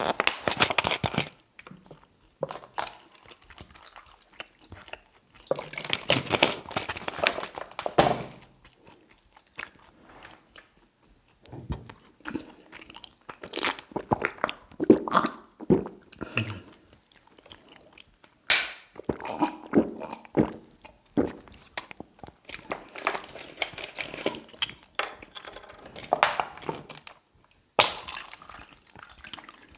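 Close-miked chewing of tagliatelle in salmon cream sauce, mouth sounds coming in irregular bursts with short pauses between mouthfuls.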